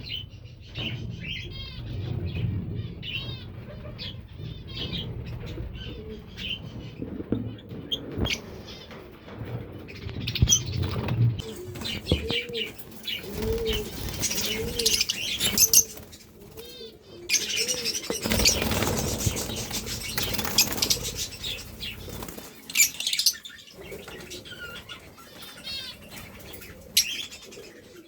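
Caged lovebirds chirping and squawking with high, quick calls, with wing flapping in bursts. A run of low, repeated cooing notes comes from the middle on.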